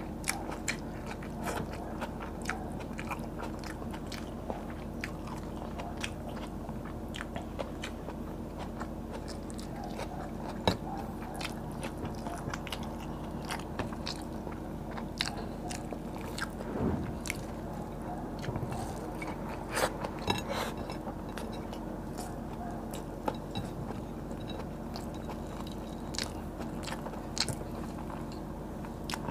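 Close-miked chewing and crunching of crispy fried tilapia and rice, with many short sharp wet mouth clicks, over a low steady hum.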